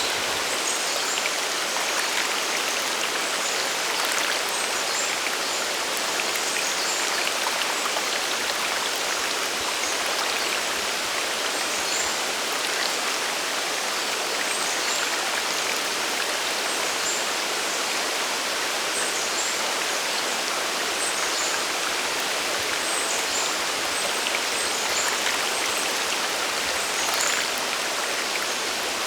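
Mountain waterfall and stream water rushing steadily in an even hiss, with scattered small splashes on top.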